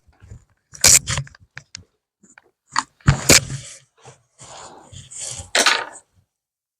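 Handling noise of craft materials on a table: a series of short knocks and clicks with stretches of scraping and rustling, the loudest about a second in, about three seconds in and near the end.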